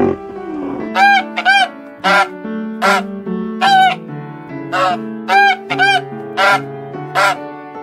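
A bird giving about ten short, loud calls, some in quick pairs, each rising and then falling in pitch, over soft background music with held low notes.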